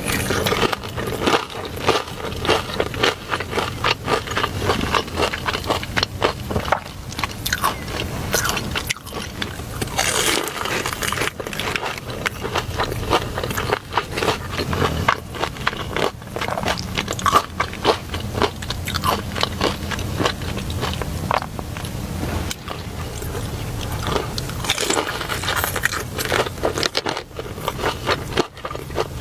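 A person eating crunchy food close to the microphone, with repeated bites, crunches and chewing.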